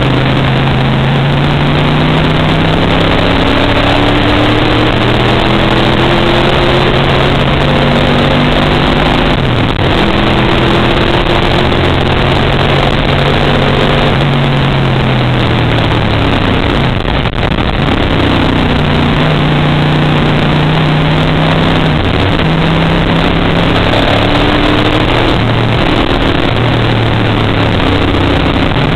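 Race car engine heard from inside the cockpit, running hard around the track. Its pitch climbs under throttle, drops sharply about a third of the way in, sags again a little past the middle, and then climbs once more.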